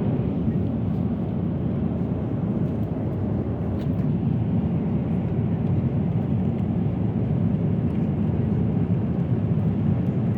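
Steady low drone of a Boeing 777-300ER cabin in cruise: engine and airflow noise heard from a passenger seat.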